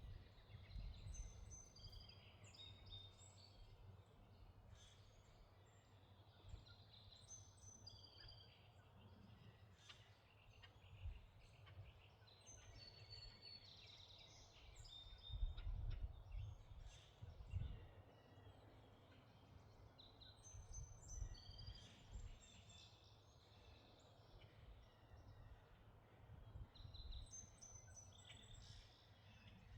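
Faint songbirds chirping and singing in short high phrases, over a low wind rumble on the microphone that swells into a few louder gusts midway.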